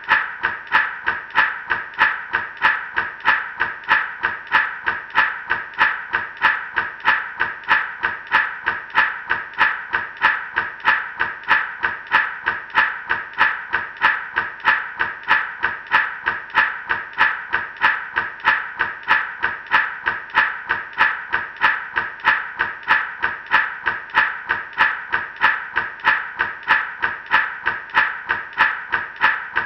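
Gourd rattle shaken in a steady, even rhythm, about two and a half shakes a second, each shake a bright rush of seeds rattling inside the dried gourd.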